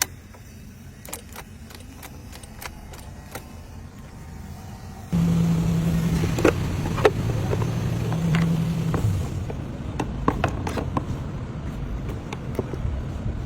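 A few light clicks and taps, then about five seconds in a car engine suddenly starts and keeps running steadily, with a steady hum for the first few seconds of running.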